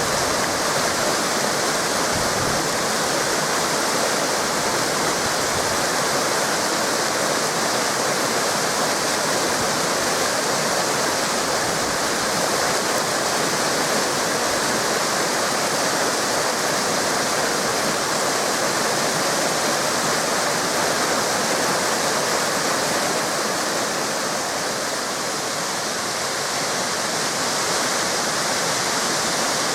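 Waterfalls and cascading river water rushing steadily.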